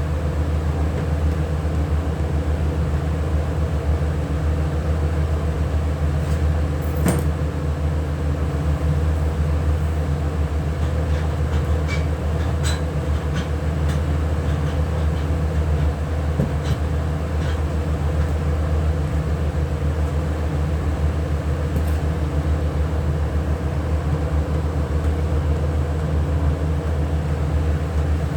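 A machine runs with a steady low hum throughout. A few light clicks and knocks fall over it, most clearly about seven seconds in and around twelve to thirteen seconds.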